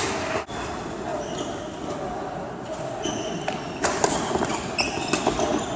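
Badminton play in a large sports hall: shoes squeaking on the court floor, with a few sharp racket hits on the shuttlecock in the second half, over the hall's background murmur.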